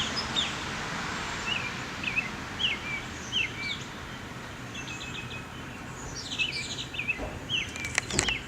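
An unidentified bird calling: a run of short, high chirps that slide down in pitch, repeated every half second or so and crowding together late on, over steady background noise. A few sharp clicks come near the end.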